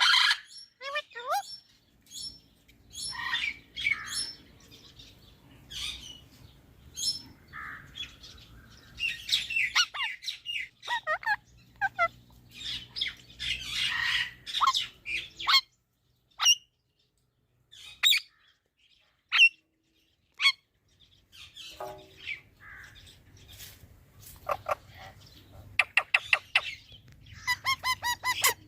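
Pet parrot calling: a run of short chirps and harsh squawks with brief pauses, ending in a fast series of sharp calls.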